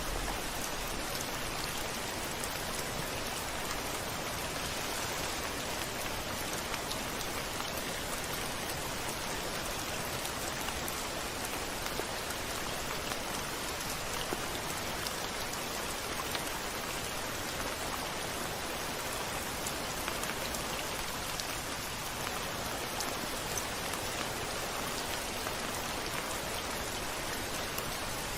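Steady rain pouring down on a window, with scattered individual drops ticking through an even hiss.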